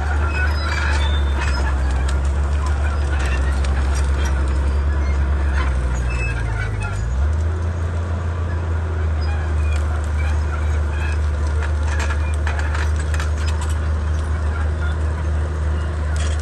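Komatsu D31P bulldozer's diesel engine running under work, a steady low drone that shifts in pitch about seven seconds in, with scattered clicks and clanks over it.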